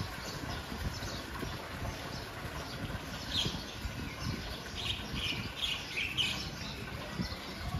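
Small birds chirping: a few short calls about three seconds in, then a quick run of calls a little later, over a low steady rumble.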